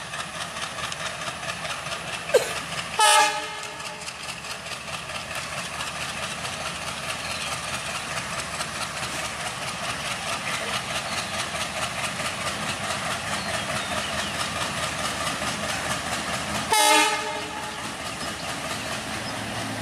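Diesel-hauled express train coming slowly closer, its locomotive and wheels making a steady rhythmic running sound that gradually grows louder. A train horn gives two short blasts, about three seconds in and again about seventeen seconds in.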